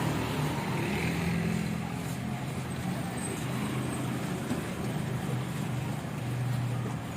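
Diesel truck engine running steadily while driving, with a low drone and road noise.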